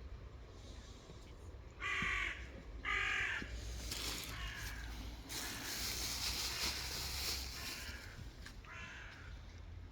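Two short, harsh animal calls about a second apart, then a longer hissing noise and one more weaker call near the end.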